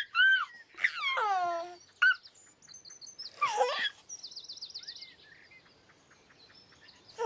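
Birds chirping, with a quick high warbling trill near the middle, after a few sliding, falling calls in the first seconds.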